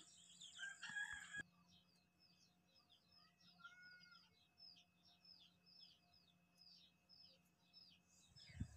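Faint bird chirping in the background: a run of short, high chirps, about two to three a second, that stops near the end, over near silence.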